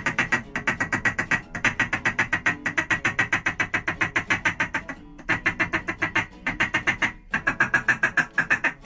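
Duck call blown in a rapid quacking feed chatter, about eight notes a second in runs broken by short pauses: the hunter working birds to swing over the decoys.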